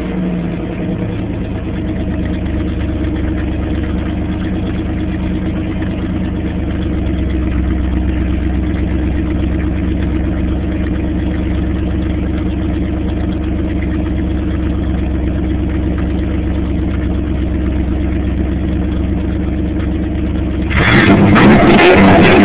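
1984 Pontiac Trans Am's 305 small-block V8 idling steadily at an even pitch. Near the end a much louder, fuller sound cuts in suddenly.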